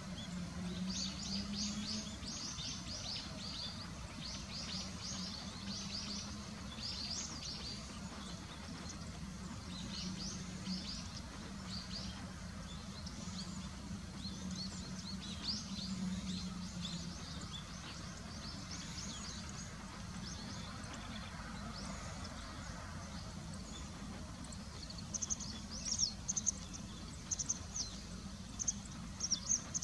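Small birds chirping in quick high-pitched runs, the calls coming sharper and louder near the end, over a steady low hum.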